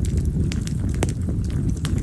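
Wild cherry (yamazakura) firewood burning, crackling with about four sharp pops over a steady low rumble.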